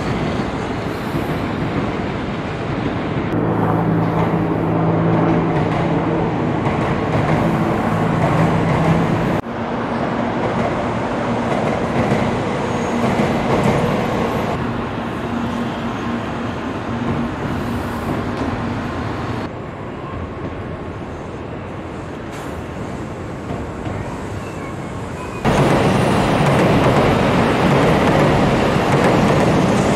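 Tokaido Shinkansen train running past on an elevated track: a steady rush of wheels on rail with a low hum. The sound changes abruptly several times and is loudest near the end.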